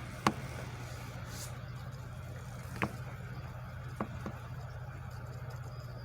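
Steady low machinery hum from an industrial shop, broken by four sharp bangs: a loud one right at the start, then single bangs about three and four seconds in, the last followed quickly by a lighter knock.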